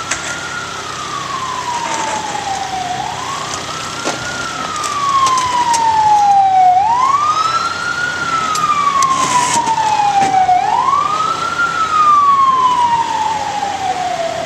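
Ambulance siren on wail: each cycle is a quick rise and a longer, slower fall in pitch, repeating about every four seconds, and it grows louder about five seconds in.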